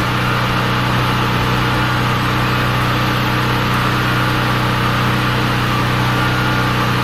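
A 7,500-watt portable generator's engine running with a steady hum, powering refrigerators, freezers, lights and a space heater through extension cords.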